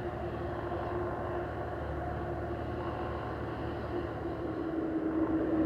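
Jet airliner's engines running at low taxi thrust as it back-tracks along the runway after landing, a steady hum and whine that grows louder near the end.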